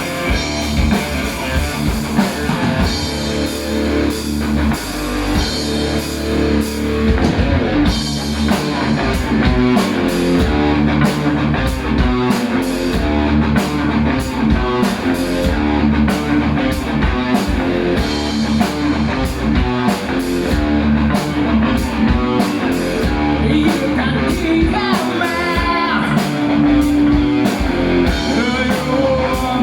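Heavy metal band playing live: distorted electric guitars over a steadily pounding drum kit, loud and dense throughout.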